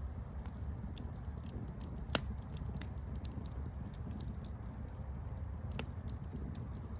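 Wood campfire crackling: a steady low rumble of burning with scattered small clicks, and a sharp pop about two seconds in and another near six seconds.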